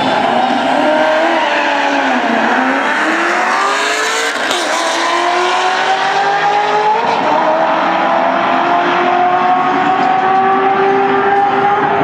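A BMW sedan and a Corvette launching off the line together and accelerating hard down a drag strip. The engine pitch climbs steadily, dropping sharply at upshifts about four and a half and seven seconds in.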